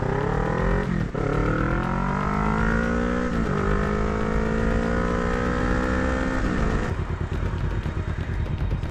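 Motorcycle engine accelerating through the gears. The pitch climbs steadily and drops briefly at each shift, about one second and three and a half seconds in. Near the end the engine note drops away, leaving a rushing noise.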